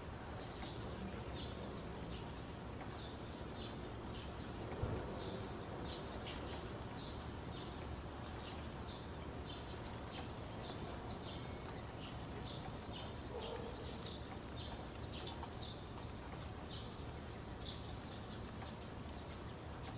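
Short high chirps of small birds repeat irregularly, a few a second, over a steady low hum. A single soft thump comes about five seconds in.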